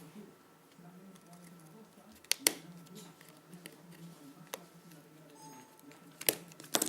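A few sharp, isolated clicks and taps of small tools and plastic parts as an opened MP3 player is worked apart, over a low steady hum.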